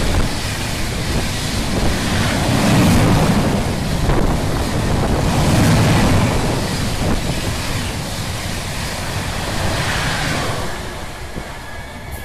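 Express train passing at speed close by: a loud, steady rush of wheels on rail and displaced air, with wind buffeting the microphone, fading about ten seconds in.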